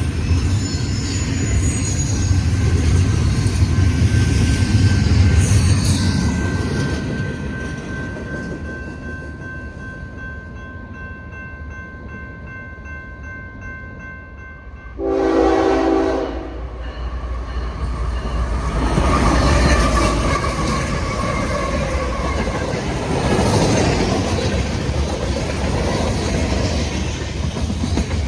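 Union Pacific freight train running by, with a low rumble from the locomotive and cars. About halfway through the horn sounds one short blast of about a second and a half, and then the wheels and cars clatter loudly past.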